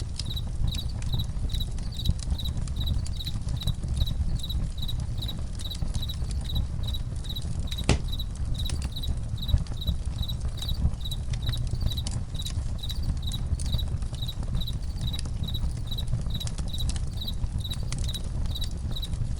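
Crickets chirping in a steady, even rhythm of about two to three high chirps a second, over a crackling campfire with scattered sharp pops and a low rumble.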